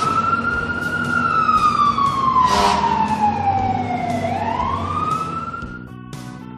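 A siren wailing: one tone glides slowly down and then back up, over a low steady hum, and cuts off near the end.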